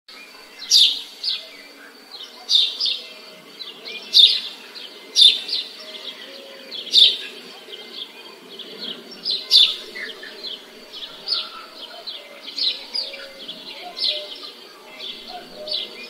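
A bird chirping: short, sharp high calls repeated about once a second, loudest in the first ten seconds and softer after. Underneath is a faint low background murmur.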